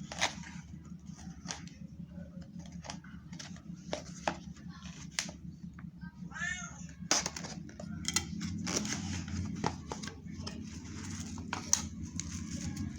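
Scattered clicks and taps of packaging being handled and opened, over a steady low hum. About six and a half seconds in comes one short pitched call that bends up and down in pitch.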